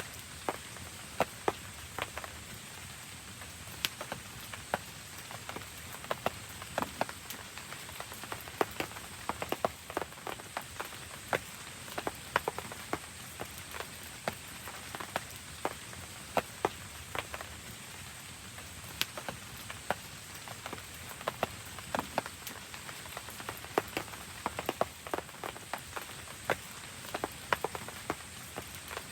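Steady rain falling, with many irregular sharp taps and clicks scattered through it.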